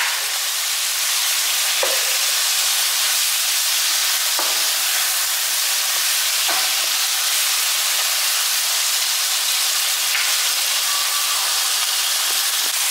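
Pork mince, onion and freshly added diced tomato sizzling in a hot non-stick pan: a steady frying hiss, with a few short taps and scrapes of a spatula against the pan as it is stirred.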